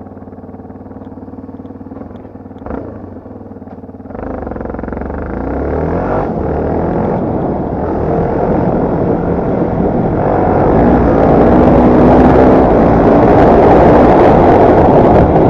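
Yamaha TT250R's single-cylinder four-stroke engine idling steadily, with a single click about three seconds in. At about four seconds it pulls away and gets steadily louder and rougher as the bike accelerates.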